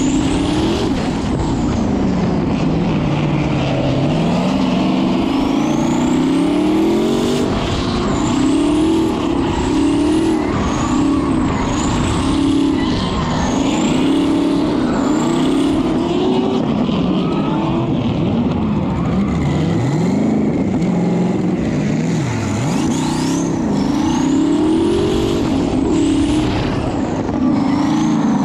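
Twin-turbocharged 5.3-litre V8 of a Corvette C6 drift car, revving up and down over and over as it drifts, with a high turbo whistle rising and falling with each rev.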